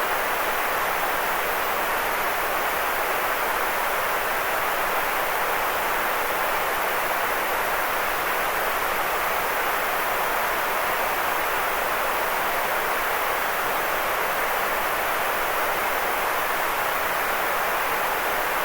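Steady white noise played as a sleep aid: an even, unchanging hiss, strongest in the middle range with little bass.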